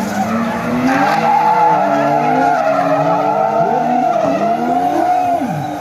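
Drift cars sliding with a long, continuous tyre squeal while their engines rev up and down over and over.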